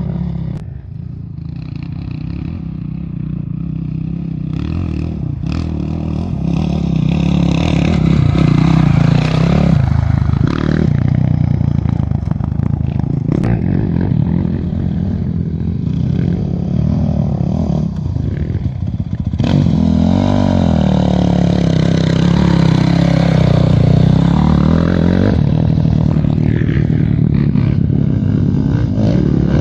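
A motor vehicle engine running loudly, its pitch dipping and rising again about two-thirds of the way through, with some clattering.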